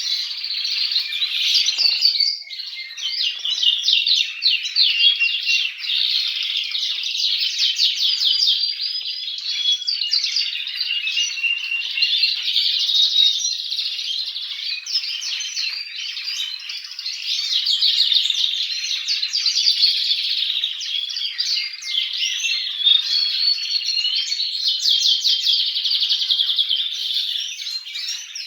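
Domestic canaries singing without pause, in long runs of rapid trills and chirps.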